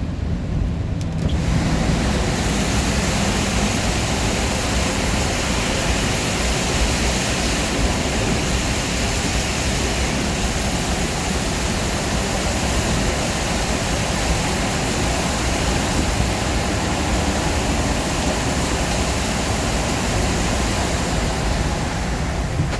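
Steady rushing noise of a moving vehicle: low road rumble with a loud hiss spreading across the highs that sets in about a second and a half in, like wind or tyre noise at speed.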